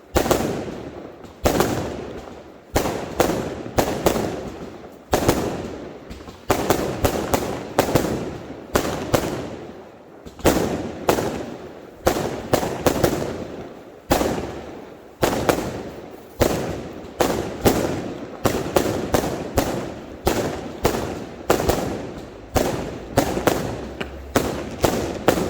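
Fireworks going off: a rapid, continuous run of sharp bangs, often several a second, each trailing off in an echo before the next.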